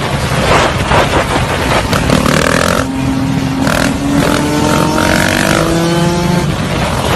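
Motorcycle engine running hard and accelerating, its pitch climbing from about three seconds in.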